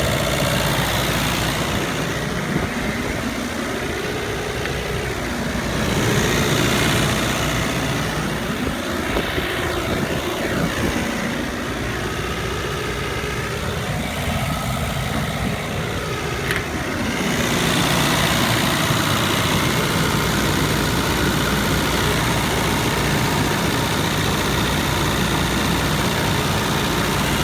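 An engine running steadily with a low hum. The sound wavers from a couple of seconds in until about two-thirds through, then holds even.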